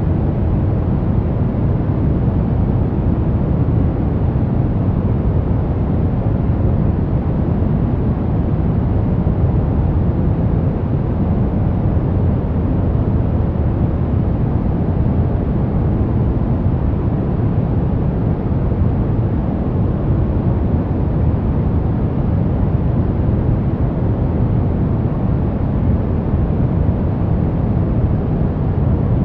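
Steady white noise for baby sleep, deep and low-weighted like a rumble rather than a hiss, holding level with no change.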